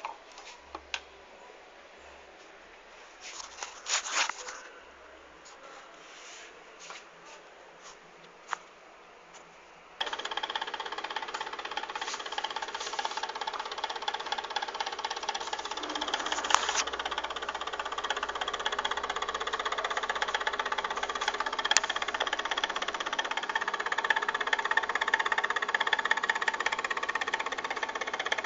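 Old electric fan: a few light clicks and knocks, then about a third of the way in the motor switches on and runs steadily with a mechanical hum and rattle.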